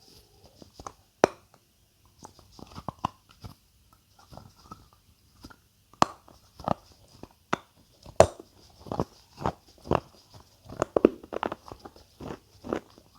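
Close-miked crunchy food being bitten and chewed in ASMR eating, a string of sharp, irregular crunches, the loudest about a second in and about eight seconds in.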